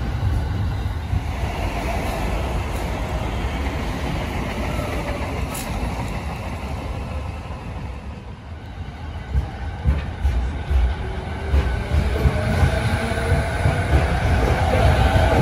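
JR electric commuter trains at a station: the rumble of a departing train fades over the first half. A second train then comes in alongside, its wheels knocking over rail joints, the rumble growing, and a steady whine rising near the end as it pulls in.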